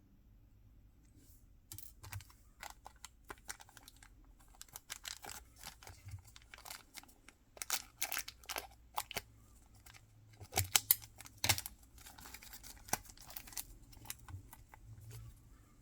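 Packaging being handled and opened by hand: a run of crinkling, clicking and tearing sounds, loudest a little past the middle.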